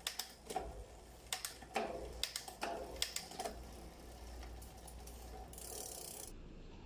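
Mountain bike drivetrain clicking as the gears are worked: a run of sharp, irregular clicks over the first three and a half seconds, then a quieter steady running sound with a brief hiss near the end.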